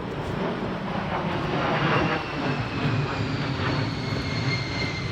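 Airplane passing overhead: a steady rumble of engine noise that swells about two seconds in, with a high whine slowly falling in pitch from about three seconds on.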